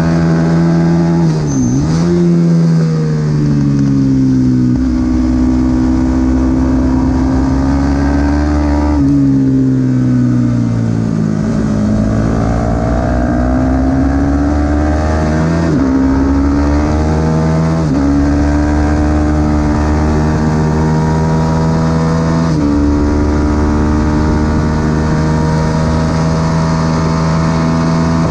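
Supersport 300 racing motorcycle engine running hard on track, its revs rising and falling. The pitch jumps abruptly several times at gear changes and falls for longer stretches about two seconds in and again around ten to twelve seconds in, as it slows for corners.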